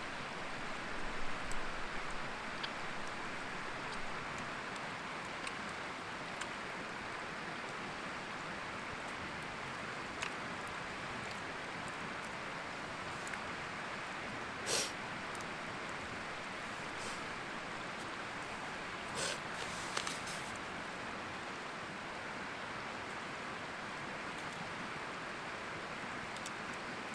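Stream water flowing steadily, with a few short sharp clicks or scrapes about halfway through and again a few seconds later.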